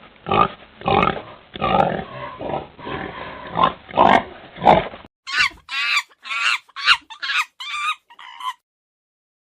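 Animal calls from two recordings: first a run of short, low calls, about two a second, for about five seconds; then a faster run of higher, pitched calls, about three a second, which stop about a second before the end.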